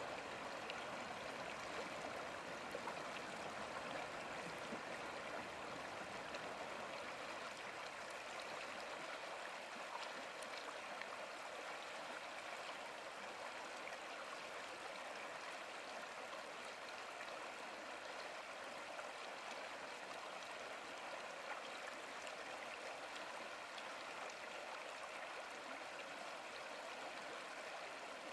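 Mountain stream or river water running steadily over rocks, an even rushing hiss with small splashes and gurgles.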